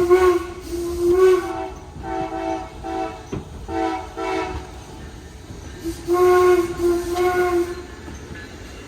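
A steam locomotive's whistle and an Amtrak locomotive's air horn trading blasts in a duel: two blasts near the start, three shorter ones in quick succession, then two more near the end.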